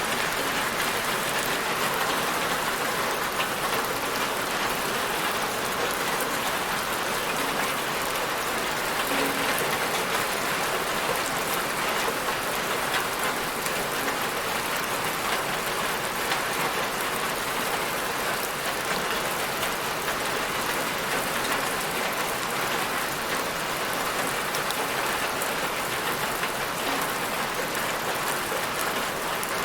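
Steady rain falling and pattering on a surface, a constant even hiss with fine drop impacts.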